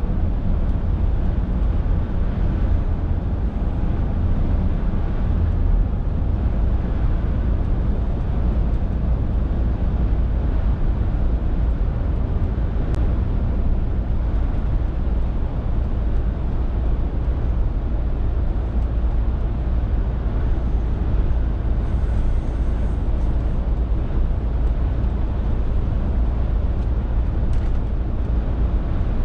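Scania R450 lorry under way: its 13-litre inline-six diesel engine running with road noise, a steady low rumble.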